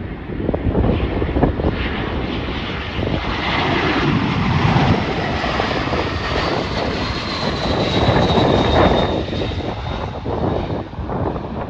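Arriving airliner's jet engines passing, the rumble swelling through the middle and a high engine whine sliding down in pitch as it goes by, with wind buffeting the microphone.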